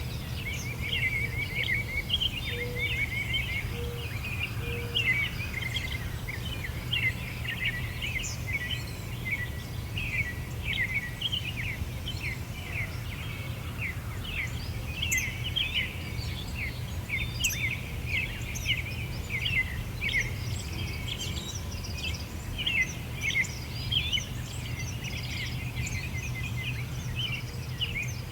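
Several small birds chirping and singing at once, many quick overlapping chirps with no pause, over a steady low background hum.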